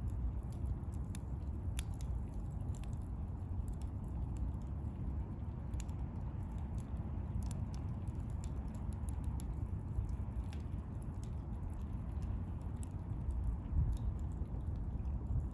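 Small wood campfire crackling, with scattered sharp pops and snaps over a low steady rumble.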